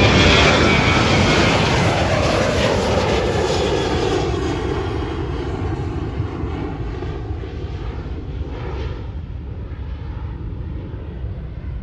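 United Airlines Boeing 737 jet airliner taking off. The engine noise is loudest at the start and fades steadily as it passes and climbs away, its whine gliding down in pitch over a deep rumble.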